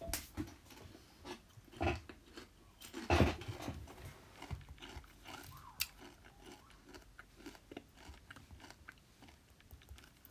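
Gritty scraping strokes on a paved path as dirt is cleaned off it: a few louder scrapes early on, then many small irregular scratches and ticks.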